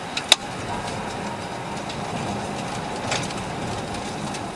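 Steady road and engine noise of a moving vehicle, with one sharp click about a third of a second in.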